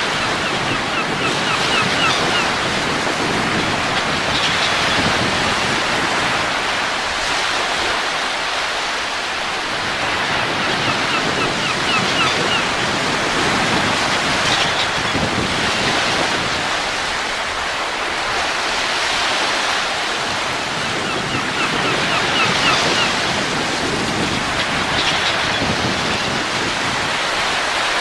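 Steady wind noise rising and falling in slow swells. A few times a short run of faint high chirps sounds through it.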